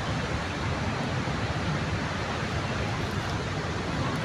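Steady, even rushing noise of the Victoria Falls waterfall, with no distinct events.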